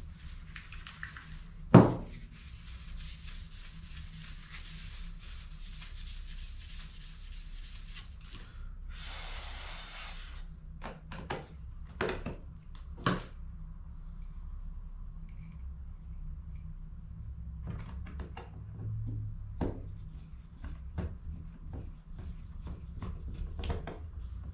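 Hands working on plastic HP CE285A toner cartridges: a sharp knock about two seconds in, a stretch of rubbing and scraping, a brief rushing hiss, then scattered clicks and knocks of plastic parts.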